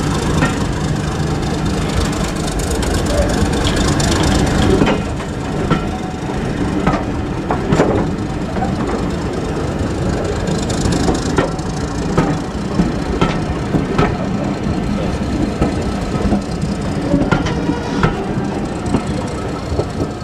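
A diesel train running slowly with its engine note steady, while wheels give sharp irregular clicks and knocks on the rails.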